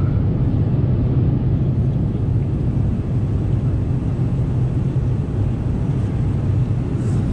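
Steady low drone of an Airbus A330-300 cabin in flight: engine and airflow noise, even throughout.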